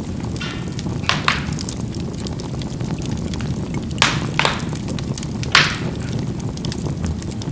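Charcoal burning in a fireplace: a steady low rush of fire with the coals crackling and popping. A few sharp pops stand out: two close together about a second in, two around four seconds, and one near five and a half seconds.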